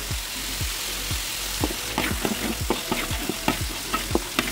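Ground chili spice paste sizzling in hot oil in a wok, with a metal spatula stirring and scraping against the pan in repeated strokes, a few a second.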